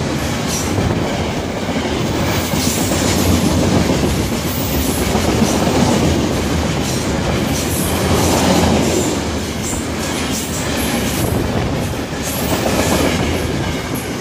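Freight cars rolling past at speed close by: a loud, steady rush of steel wheels on rail with a rapid clickety-clack of wheels over the rail joints.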